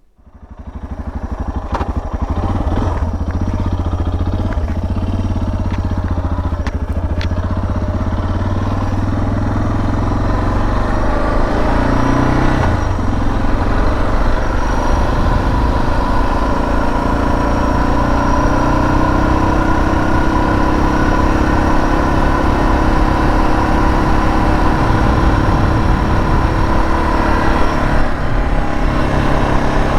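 Suzuki DR650's single-cylinder four-stroke engine running steadily, coming in suddenly at the start, with a few sharp clicks in the first several seconds and a shift in engine pitch about twelve seconds in.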